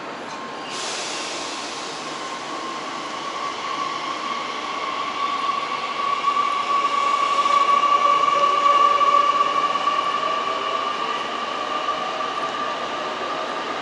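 Shinkansen train moving along the platform, its steady motor whine swelling to a peak about eight or nine seconds in and then easing off, over a hiss that sets in about a second in.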